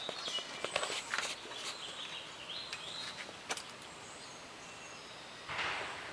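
Faint outdoor background with a few light clicks and taps in the first second and a half, a short rising bird chirp about three seconds in, and a brief rustle near the end.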